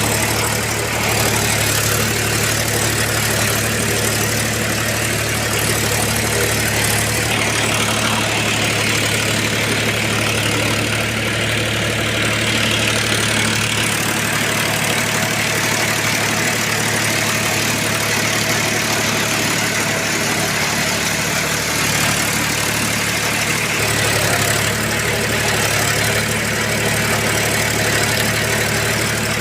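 Powertrac Euro 42 Plus tractor's diesel engine running steadily while it works a rotavator, its low note shifting slightly a few times.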